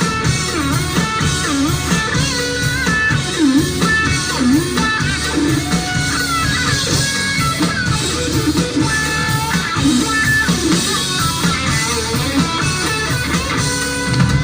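Live band playing an instrumental break led by guitar, with a stepping melody line over bass and drums.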